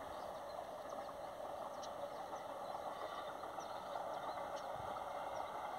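Distant train running along its line, a steady engine drone with no change in pitch.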